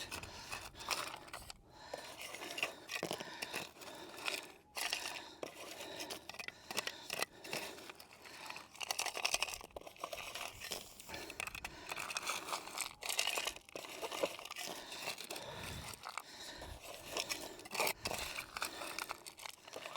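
Scoop scraping and digging through loose gravelly dirt and rock, with irregular crunching and scratching strokes while the loosened soil is searched for a detected metal target.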